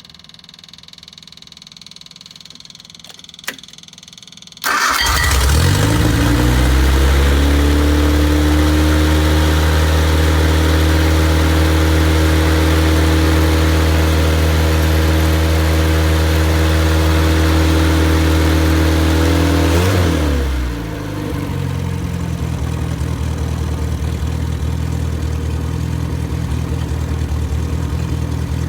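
A freshly rebuilt MG Midget 1500 inline four-cylinder engine, run with no muffler, fires up about four and a half seconds in. It climbs to a steady fast idle and holds there, then drops to a lower idle about twenty seconds in.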